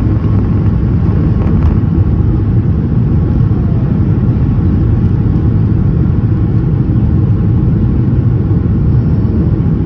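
Cabin noise inside a Boeing 737 MAX 8 during takeoff: the steady low rumble of its CFM LEAP-1B engines at high power, mixed with airflow over the fuselage.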